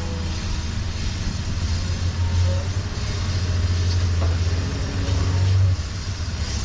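An engine running steadily with a low hum. It drops off sharply about six seconds in.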